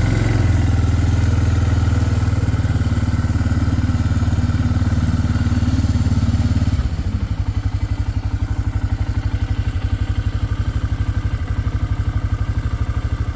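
Engine running steadily with an even pulse, then easing off to a lower, quieter speed about seven seconds in.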